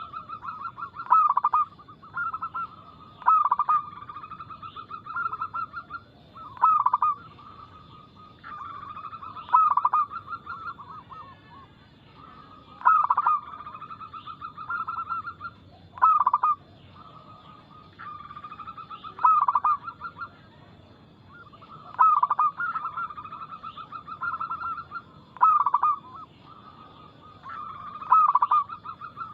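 Zebra dove (perkutut) cooing: repeated phrases every few seconds, each opening with a sharp, loud note and running into a fast, rippling string of coos.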